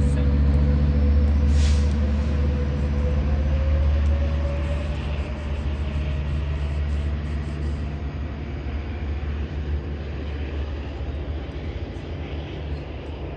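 Diesel train's engine rumble, with a faint rising whine, gradually fading as the train moves away.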